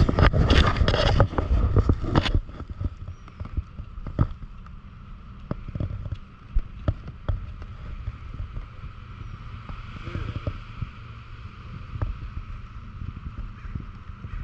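Wind buffeting the microphone and road rumble while riding a bicycle, with scattered knocks and rattles over bumps. It is loudest and most jumbled in the first two seconds, then settles to a steadier rumble.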